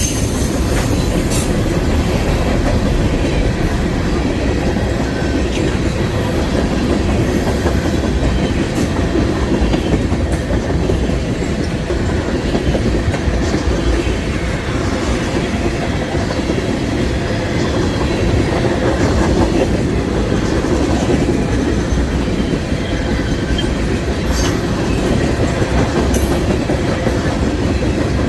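CSX freight train's cars rolling past in a steady, loud rumble, the wheels clicking over the rail joints.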